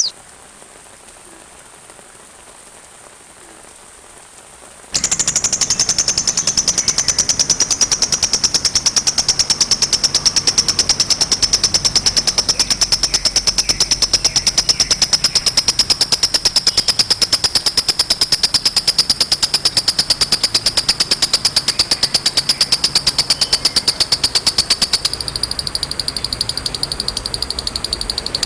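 An animal's very rapid, high-pitched rattling trill that starts suddenly about five seconds in after faint hiss, runs unbroken for about twenty seconds while slowly falling in pitch, then continues a little quieter near the end.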